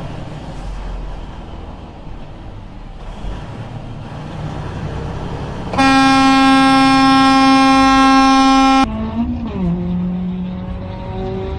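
Road traffic noise, then a vehicle horn sounds one long, steady blast of about three seconds, starting and cutting off abruptly. After it an engine rises in pitch as a vehicle accelerates.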